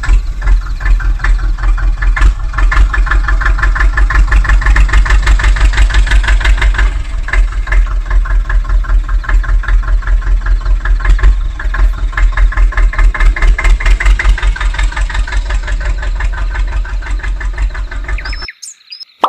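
Tractor diesel engine idling, a steady fast chug of about five beats a second, which cuts off suddenly near the end.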